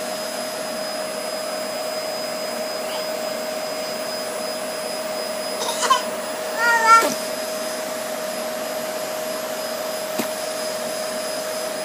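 Vacuum cleaner running steadily with a constant hum. A brief high-pitched cry breaks in twice, about six and seven seconds in.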